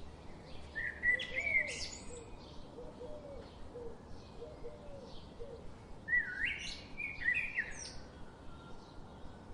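Birds singing: two loud phrases of quick, swooping, chirpy notes, one just after the start and one about six seconds in, over a steady run of softer repeated chirps, about two or three a second.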